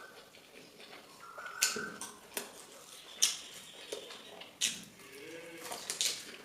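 Someone eating fried food: a handful of sharp crunches and wet mouth smacks of chewing at irregular intervals, about five loud ones.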